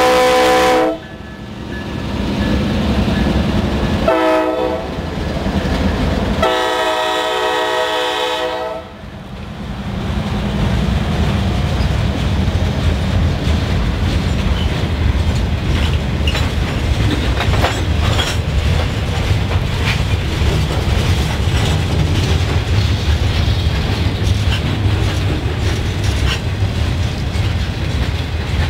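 Freight train passing close by, led by GE diesel locomotives. The lead locomotive's multi-note air horn ends a blast in the first second, then gives a short blast about four seconds in and a longer one about six and a half seconds in, the close of a grade-crossing horn signal. From about ten seconds on the freight cars roll past with a steady rumble and clickety-clack of wheels over rail joints.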